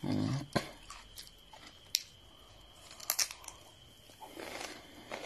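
Chewing raw cucumber close to the microphone, with a few sharp crisp crunches, the strongest about two and three seconds in. A short low thump opens it.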